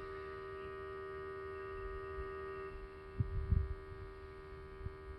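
Electric fuel pump of a Rotax 912ULS aircraft engine running with a steady hum, priming fuel pressure before a start. A few soft low thumps come about three seconds in.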